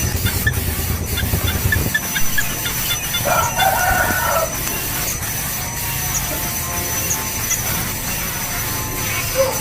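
A rooster crowing once, a pitched call of about a second starting roughly three seconds in, over a steady thin high tone and faint short chirps.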